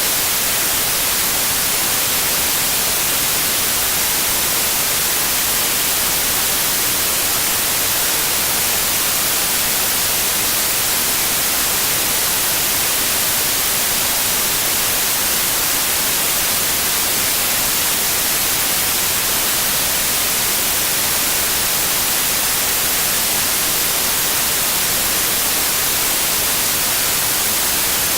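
Steady white noise: a constant, even hiss, brightest in the high range, with no change or interruption.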